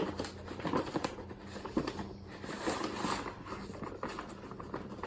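Measuring cup scooping baking soda and tipping it into a mixing bowl: soft, irregular scraping and rustling of the powder with small clicks of the cup.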